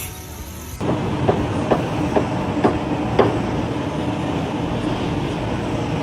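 Steady mechanical rumble with a low hum, and a run of sharp knocks about twice a second in the first few seconds.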